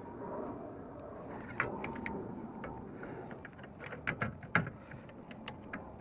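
Irregular sharp clicks and clinks of a wrench and metal pipe fittings as a threaded fitting on the compressor's air outlet is turned and tightened, the loudest knock about four and a half seconds in.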